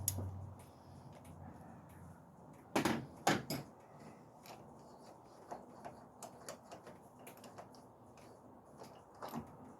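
A few sharp metal knocks about three seconds in, then scattered light clicks and a couple more knocks near the end, as the parts around the Ford Focus's engine mount are handled.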